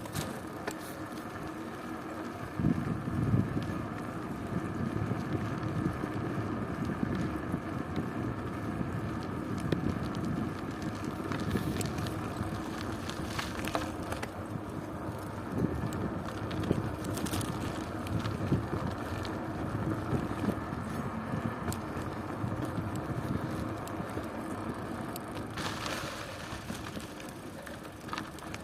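Bicycle being ridden: continuous tyre and drivetrain rumble with wind buffeting the microphone, and a few short rattles along the way.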